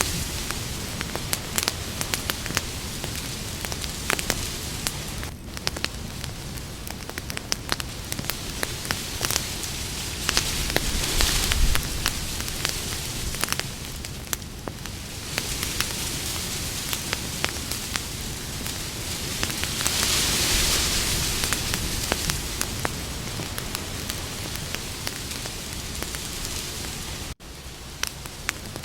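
Campfire burning with a steady hiss and frequent sharp crackles and pops of burning wood, the hiss swelling now and then. The sound cuts out for an instant near the end.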